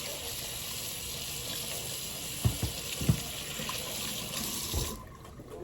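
Kitchen sink tap running steadily, then shut off about five seconds in, with a few dull knocks in the sink partway through.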